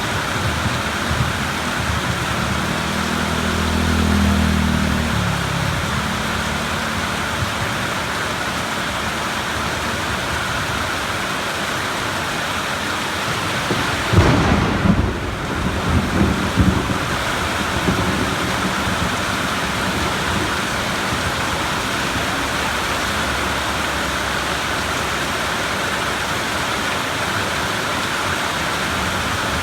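Steady heavy rain on surfaces through a thunderstorm, with a low rolling rumble a few seconds in and a crackling thunderclap about halfway through that rumbles on for a couple of seconds.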